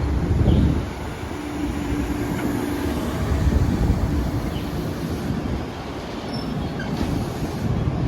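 Long Island Rail Road train running past, a steady rumble of wheels on the rails.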